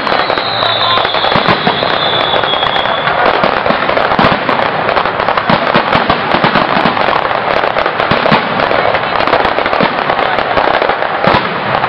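Aerial fireworks display: a dense, continuous barrage of shell bursts, bangs and crackling, with a high whistling tone over the first few seconds.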